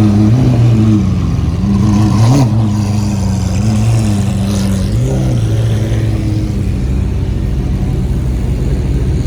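Car engine idling loudly, with brief rises in pitch about two and a half and five seconds in, like short throttle blips.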